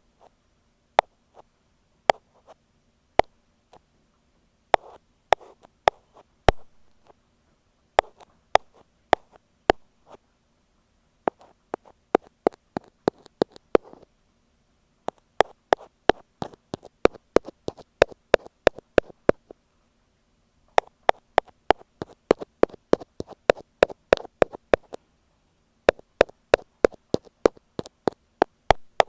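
Ear pick tapping on an earphone microphone: sharp, dry clicks. For the first ten seconds they come slowly, about one a second, then in quick runs of about five taps a second with short pauses between.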